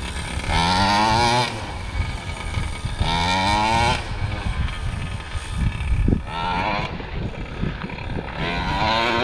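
Two-stroke gas engine of a large-scale RC monster truck revving in four bursts, each climbing in pitch then dropping back, with low rumble between. A short knock about six seconds in.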